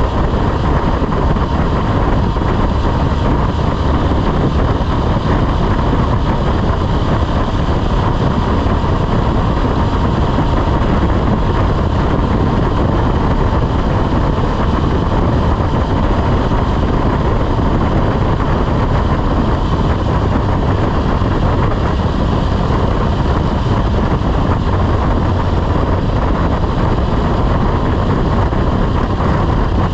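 Motorcycle riding at a steady speed: wind rushing and buffeting over the microphone, with the engine running steadily underneath.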